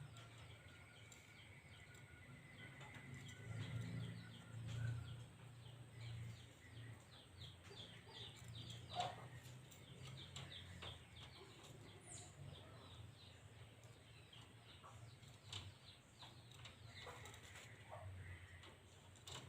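Faint bird sounds: many short, high chirps coming quickly, over a low steady hum.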